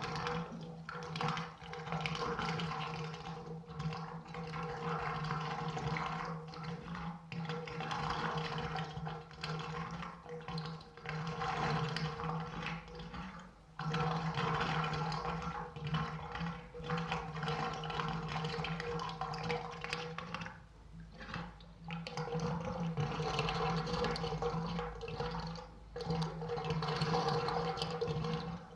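Rushing, surging water noise that swells and dips every few seconds, over a steady low hum.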